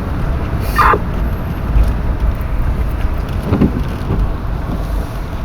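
A car driving slowly, with its steady low engine and road rumble heard from inside the cabin, and a short higher-pitched sound about a second in.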